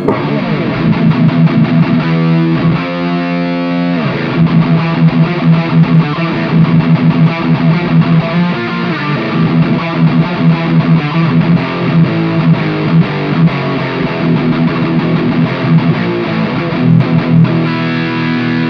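Electric guitar played through the distortion channel of a NUX Cerberus multi-effects pedal with the gain turned all the way up: a fierce, heavily distorted tone, played continuously.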